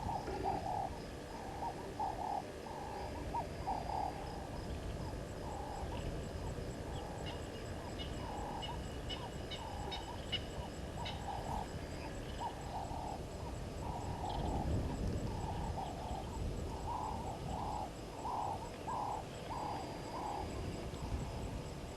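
Outdoor waterhole ambience: a long run of short, low calls on one pitch, about one or two a second, from a bird or frog at the water. A spell of faint, high chirps or clicks falls in the middle, over a low rumble of wind.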